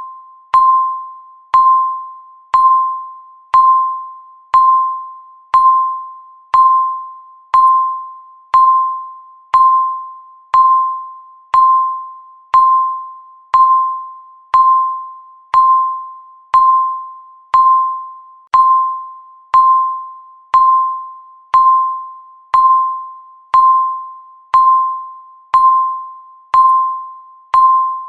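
Countdown timer's tick sound, repeating once a second: each tick is a sharp click with a short ringing tone that fades before the next.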